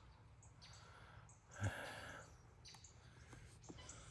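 Faint evening outdoor ambience: short, high-pitched chirps repeating irregularly, with one brief louder rustle about a second and a half in.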